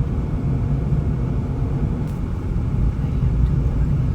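Steady low rumble of a moving road vehicle: engine and road noise at an even level, with no clear rhythm or sudden events.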